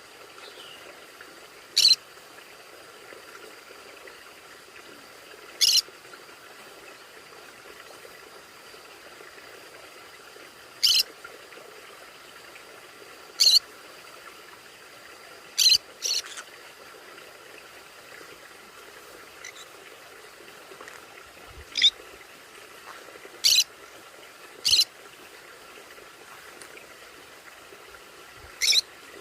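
Conures calling: about ten short, sharp, high-pitched squawks at irregular intervals, one pair in quick succession, over a faint steady hiss.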